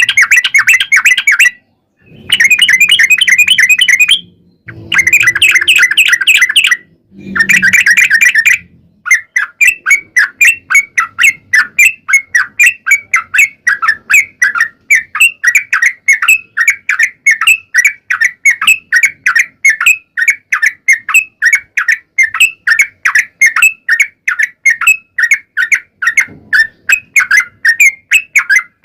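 Yellow-vented bulbul song: four short bursts of fast bubbling chatter in the first nine seconds, then a long run of quick repeated notes, about three or four a second.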